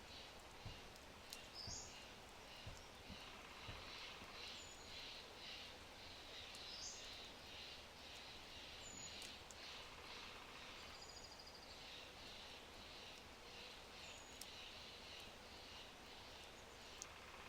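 A low oak fire crackling in a brick fireplace, with a few soft pops in the first three seconds, under faint birdsong: short high chirps and a high call repeated about two or three times a second.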